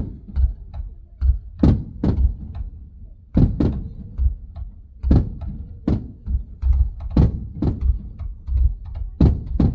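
Fireworks shells bursting in quick, irregular succession, a string of deep booms and sharper bangs about two a second, heard from inside a car.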